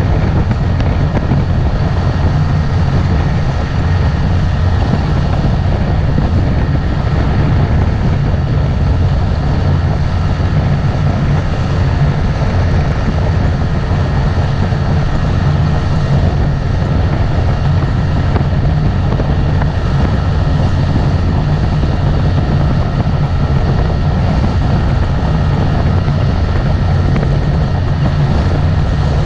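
Motorboat engine running steadily under way, a loud, constant drone that does not rise or fall.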